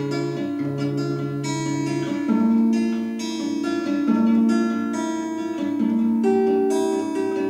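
Acoustic guitar playing a picked melody, with note after note plucked over a steady low accompaniment.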